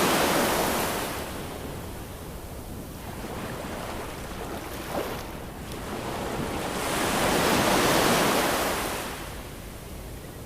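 Ocean waves surging in and washing back in slow swells: one wave fading over the first two seconds and another building to a peak about eight seconds in.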